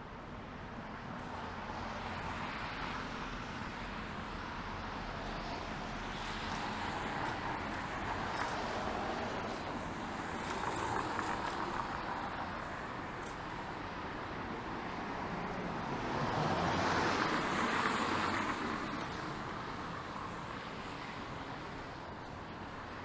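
Street traffic on wet pavement: cars passing with a steady tyre hiss that swells and fades several times, the loudest pass about 17 seconds in.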